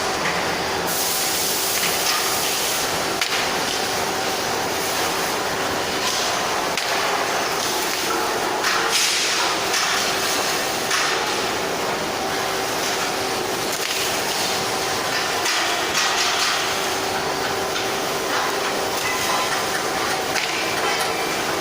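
Welding on stainless steel: a steady hiss with brief louder flares now and then, over a constant machine hum.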